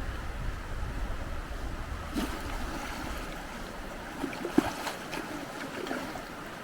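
Steady rush of a river flowing, with wind rumbling on the microphone that dies down about four seconds in, and a few faint brief sounds around two and four and a half seconds in.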